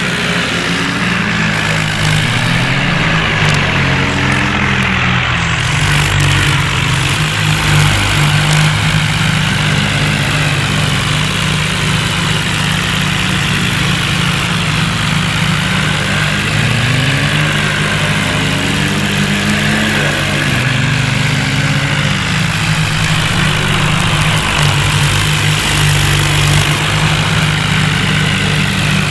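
John Deere tractor's diesel engine running steadily and loud, its revs rising and falling a little again and again.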